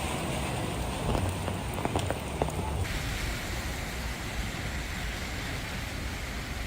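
Heavy rain falling and splashing on hard surfaces, a steady wash of noise with a few sharp drip ticks over a low rumble. About three seconds in the sound changes abruptly to a smoother, steady rain.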